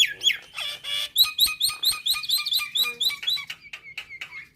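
Nias hill myna calling: a couple of sliding whistles, then a fast run of short repeated whistled notes, about five a second, that stops near the end.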